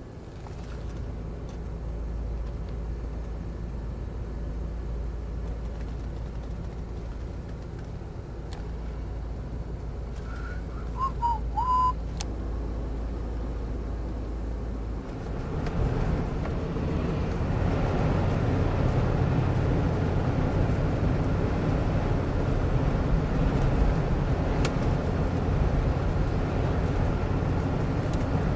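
Car driving in a blizzard, heard from inside the cabin: a steady low engine and road rumble that turns louder and rougher about halfway through. A few brief high chirps come just before the change.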